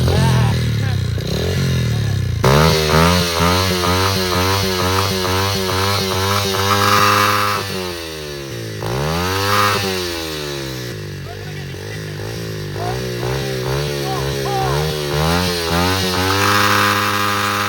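Pit bike engine running and being revved, its pitch rising and falling in quick repeated blips, with one bigger rev up and down about ten seconds in.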